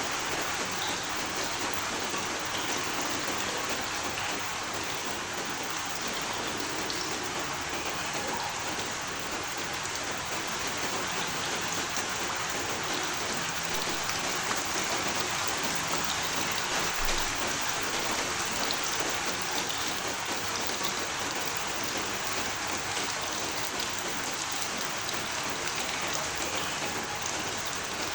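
Steady rain falling and pattering on a surface, an even hiss of drops with no distinct thunderclaps.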